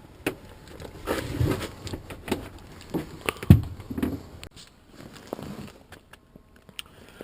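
Irregular knocks, thumps and rustling of a person moving about and handling things, with one louder knock about three and a half seconds in.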